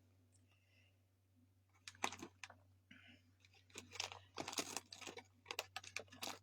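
Empty paper fast-food bags crinkling and rustling as kittens play in them, in irregular faint bursts of crackles that start about two seconds in.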